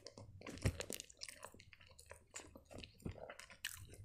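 A person chewing a mouthful of cherry-and-vanilla strudel close to the microphone: a quick run of wet mouth clicks and smacks, louder a little under a second in and again about three seconds in.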